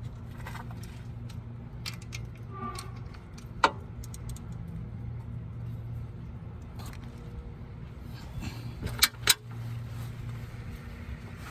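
Hand tools clinking on metal while working under a car for an oil change: one sharp clink about four seconds in and two more in quick succession later, over a steady low hum.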